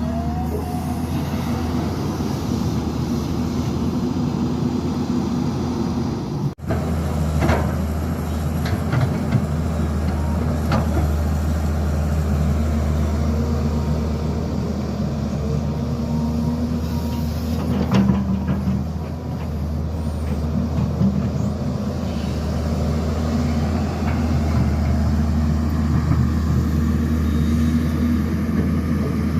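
Heavy diesel construction machinery running steadily with a low drone, with a few short knocks. The sound drops out briefly about six seconds in, where the recording cuts.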